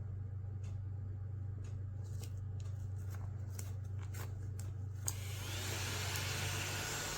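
Light plastic clicks and handling of a mini desktop vacuum cleaner as its dust bin is cleaned out, over a steady low hum. From about five seconds in there is a louder rubbing hiss.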